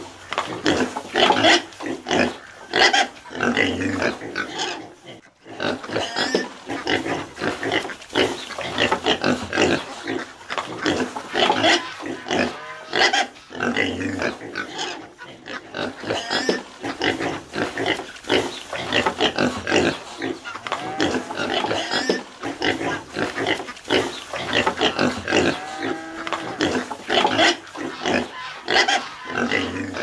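Pigs grunting throughout in a rapid, overlapping run of short grunts, with a few higher squealing calls that glide in pitch near the end.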